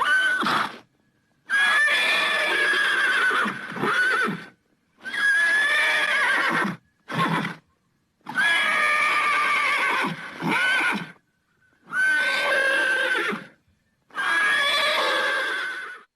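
Horse whinnying: a string of about six separate neighs, each one to three seconds long, divided by short silent gaps.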